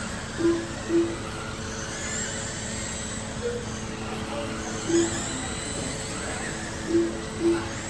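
Electric RC sprint cars racing on a dirt oval, their brushless motors whining in high pitch that rises and falls as the cars go around. Short electronic beeps sound five times, from the lap-scoring system as cars cross the timing line.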